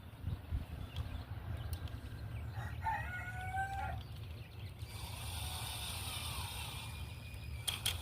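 A rooster crows once, briefly, about three seconds in. From about five seconds in, a cordless drill runs for a couple of seconds, driving a screw into the wood without a pilot hole.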